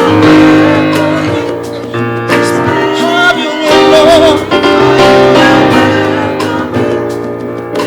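Live worship band music: keyboard and guitar playing held chords over a bass line, with a singer's voice.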